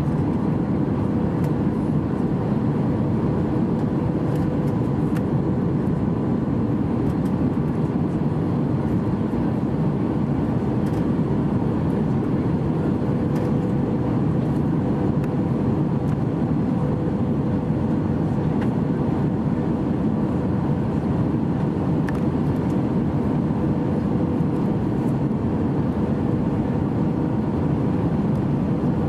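Steady airliner cabin noise in flight: a constant roar of engines and rushing air, with a faint steady hum.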